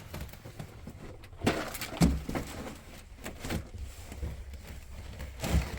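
A few scattered knocks and thuds, the loudest about two seconds in.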